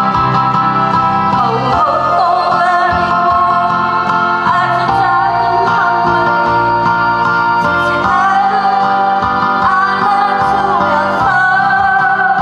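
A woman singing a slow Korean ballad over a steady backing track, her long held notes wavering with vibrato.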